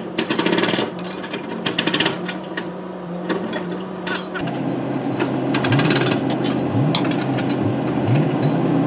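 A pneumatic hammering tool rattling in short bursts over a steady machine hum, which drops in pitch about halfway through.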